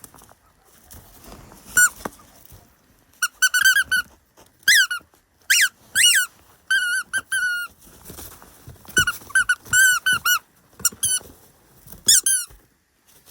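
Common raven giving short, high squeaky calls, some singly and some in quick runs of four or five, with a few soft knocks between them.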